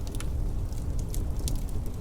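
Wood fire in a fireplace crackling, with several sharp pops and snaps over a steady low rumble.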